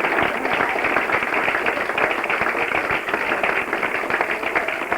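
An audience applauding: a steady patter of many hands clapping.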